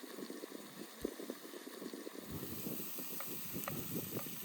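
A steak frying in a pan over a Finnish log candle fire: faint sizzling with many small, irregular crackles.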